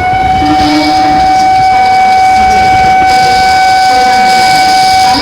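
Electric train's air horn sounding one long steady note, held for about five seconds, with a brief break near the end before it sounds again.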